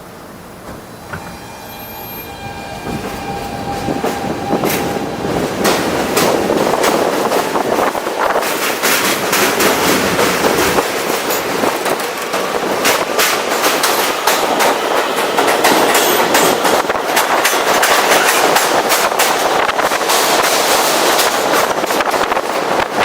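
NYC subway F train heard from on top of a car, pulling away. A whine with steady tones comes in about a second in, and the wheel-on-rail noise builds over the first several seconds. It then runs loud and steady, with rapid clicking from rail joints.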